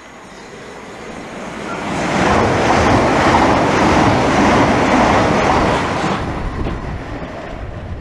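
Class 395 Javelin electric train passing through at speed: a rushing wheel and air noise that swells over a couple of seconds, stays loud for about four seconds, then fades.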